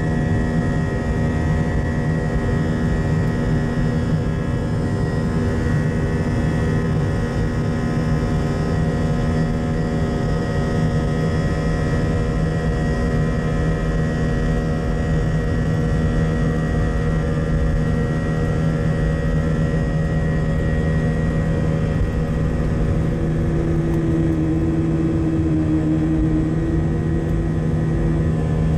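Airliner jet engines running steadily, heard from inside the cabin: a heavy low rumble under a set of steady hums. A further hum joins for a few seconds near the end.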